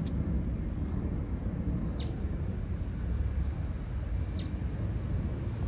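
A steady low rumble of outdoor background noise, with two short, high, falling bird chirps about two seconds and about four seconds in.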